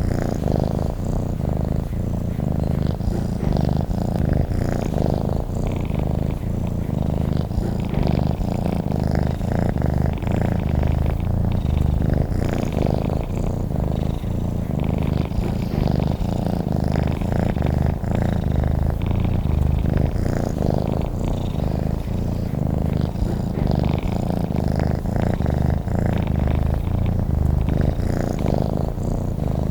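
Domestic cat purring steadily: a continuous low rumble that does not break.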